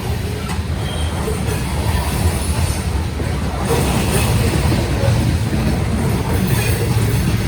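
Covered grain hopper cars of a long Union Pacific freight train rolling past, a steady low rumble of wheels on rail with brief high-pitched wheel squeals now and then.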